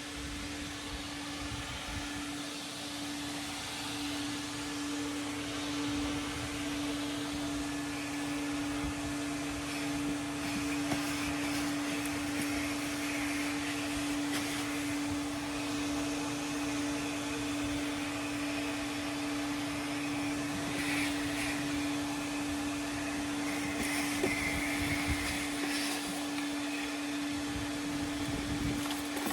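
Coin-operated car-wash vacuum running steadily as its hose nozzle cleans a truck interior: a constant motor hum under a rushing hiss of suction that swells and fades at times.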